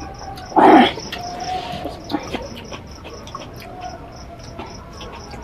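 Cricket chirping in a steady, even rhythm of about four chirps a second, with one brief loud sound just under a second in.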